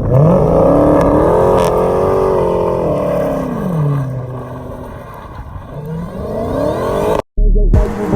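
Dodge Demon's supercharged V8 revving: it climbs in pitch, holds high for a couple of seconds, drops back, then revs up again before cutting off abruptly near the end.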